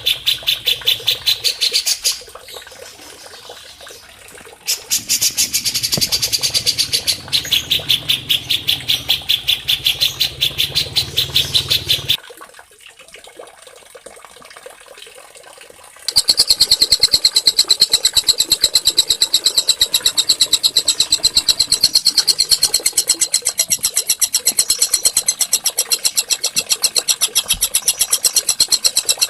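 A small songbird's rapid, high trill of evenly repeated notes, about nine or ten a second. It comes in long runs, with two breaks: one about two seconds in and another about twelve seconds in.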